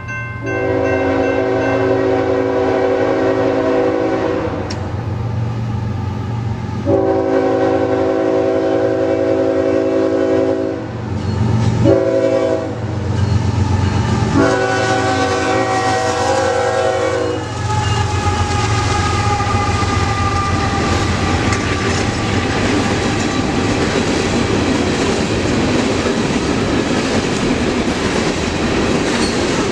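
Diesel locomotive air horn sounding the grade-crossing signal: two long blasts, a short one and a final long one. Then the train passes with a steady rumble of engine and wheels on the rails.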